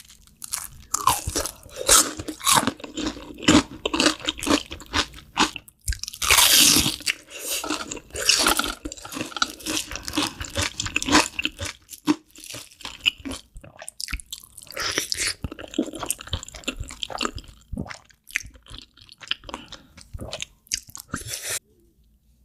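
Close-miked eating: a person biting and chewing food with wet, crisp crunching and irregular mouth clicks, louder for a moment about six seconds in, then breaking off near the end.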